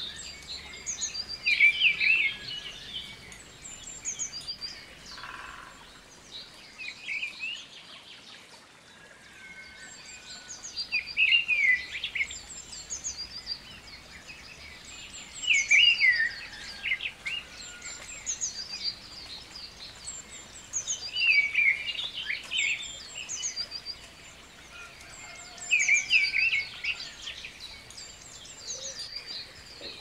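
Birds singing: a short chirping phrase repeats about every four to five seconds, with fainter chirps between, over a soft steady background noise.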